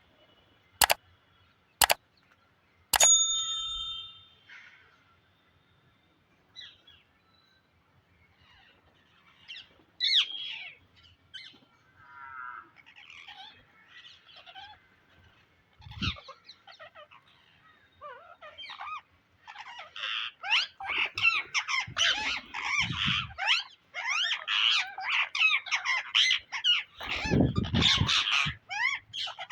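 Psittacula parakeets calling: scattered squawks and chirps at first, building to dense, overlapping squawking in the last third. Near the start there are two sharp clicks and a short ringing chime.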